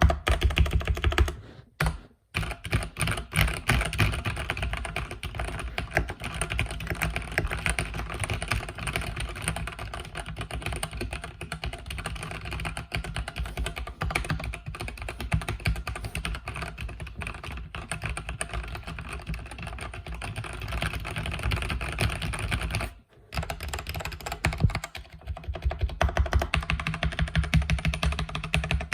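Fast, continuous typing on a mechanical keyboard with red (linear) switches, keys clicking densely. Typing pauses briefly about two seconds in and again about 23 seconds in.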